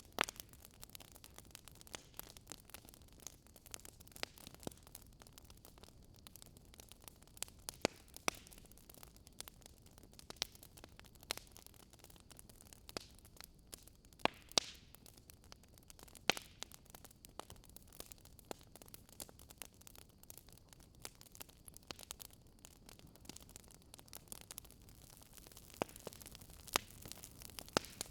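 Wood fire crackling in a fireplace: irregular sharp pops and snaps over a soft hiss, with a few louder pops scattered through.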